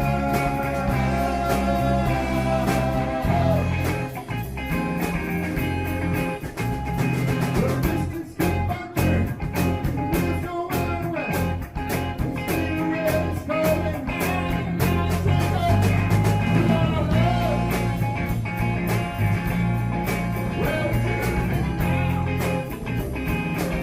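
Rock band playing an instrumental passage: guitar lines with bent notes over bass guitar and a steady drum beat.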